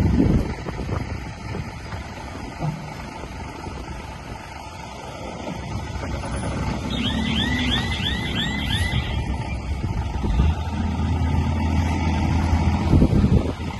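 Diesel engine of heavy earthmoving machinery running with a low rumble and a few knocks, settling into a steadier drone in the second half. Around the middle, a quick run of about six rising chirps sounds over it.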